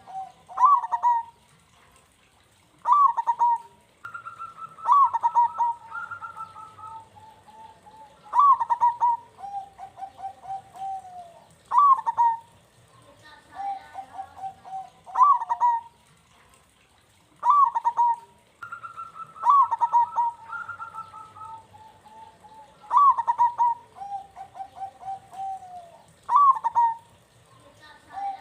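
Local zebra dove (perkutut) cooing. Each phrase is a sharp rising-and-falling note followed by a run of quick bubbling notes, repeated every three to four seconds.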